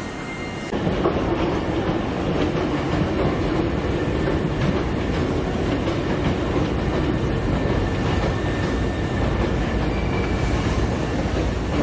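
Hankyu electric commuter train running, a steady rumble with the rattle and clicking of wheels on rail, starting abruptly just under a second in.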